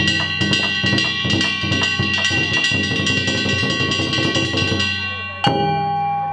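Danjiri festival-float music: drums and small gongs struck in a fast rhythm over ringing gong tones, stopping on one hard final strike about five and a half seconds in whose ring lingers.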